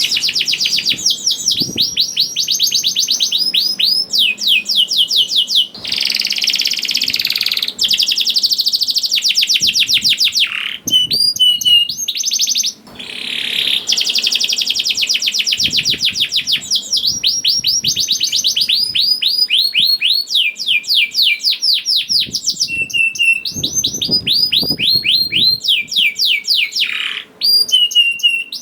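Canary singing a long, vigorous song of rapid rolling trills: fast strings of repeated notes that each slide downward, with a few held whistled notes and brief pauses between phrases. It is a full-voiced song of the kind used as a lure recording to get other canaries singing.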